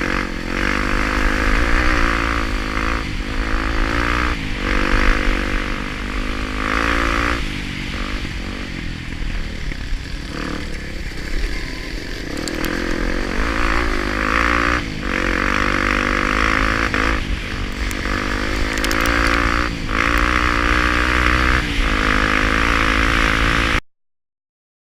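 Honda Tornado 250's single-cylinder four-stroke engine running under load off-road, its revs rising and falling again and again with gear changes and throttle. The sound cuts off suddenly near the end.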